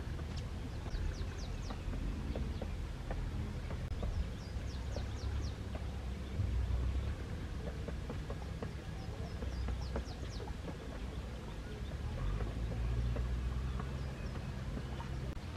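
Small birds chirping in quick runs of three or four short high notes, a few times over, above a steady low rumble.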